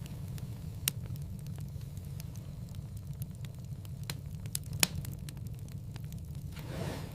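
Wood fire in a fireplace crackling over a steady low flame rumble, with scattered small snaps and two sharper pops, the louder about five seconds in. A soft hiss swells briefly near the end.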